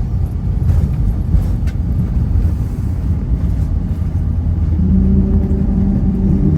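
Cabin noise of a CRJ900 regional jet taxiing after landing: a steady low rumble of the engines and the rolling airframe. About five seconds in, a steady two-tone hum joins it.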